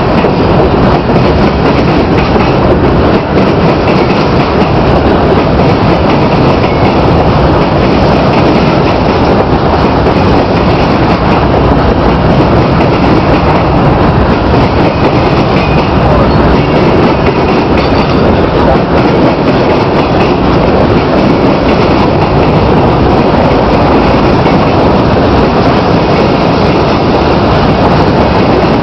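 Norfolk Southern freight train cars rolling past close by: a loud, steady rumble of steel wheels on rail that does not let up.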